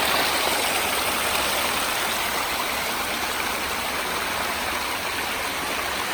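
Creek water rushing steadily over a small waterfall, an even hiss of flowing water.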